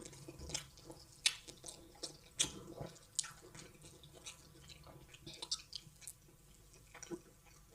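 Eating wheat fufu with egusi soup: faint, irregular wet smacks and clicks of chewing.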